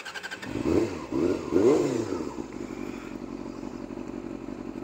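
Honda CBR250RR MC22's 250 cc inline-four catching about half a second in, then revved three times in quick rising-and-falling blips. It settles into a steady idle.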